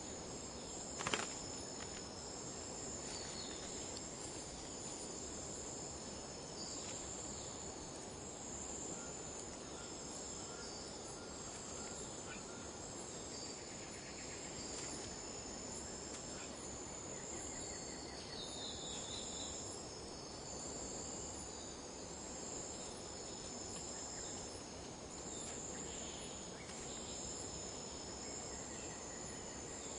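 Forest insect chorus: a steady high-pitched buzzing drone that pulses on and off every second or two. A short knock comes about a second in, and a few faint chirps sound near the middle.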